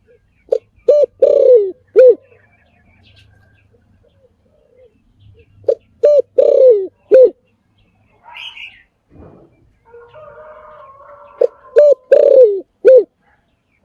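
Spotted dove cooing: three phrases about five seconds apart, each of about four low notes with a long falling coo near the end. A smaller bird chirps faintly between the phrases.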